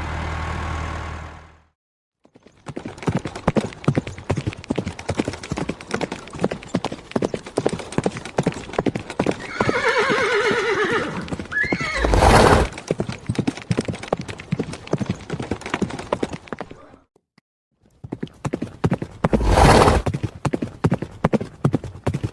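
Horse hooves clip-clopping in a steady rapid patter, broken by a neigh about ten seconds in and two short loud noisy bursts. The hoofbeats stop for about a second near the end, then start again.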